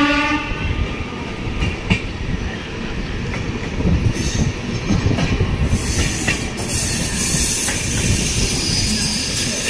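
Passenger train running along a station, heard from on board: a steady rumble with sharp clicks of the wheels over rail joints, and a high squeal-like hiss of the wheels from about six seconds in. A held train horn note ends about half a second in.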